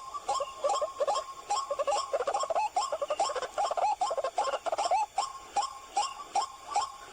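White-breasted waterhen (ruak-ruak) calling: a long run of short, quickly repeated call notes, about three a second.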